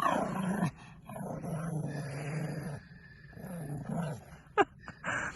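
Dog crying out in three drawn-out, growly whines, the first falling in pitch and the second long and steady, with a sharp click near the end. The owner takes it for a hurt paw.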